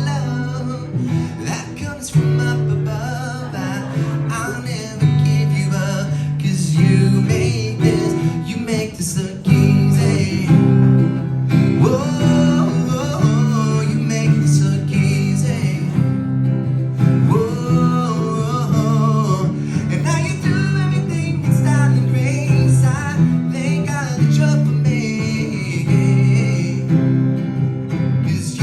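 Acoustic guitar strummed in a song, with a man singing over it in places.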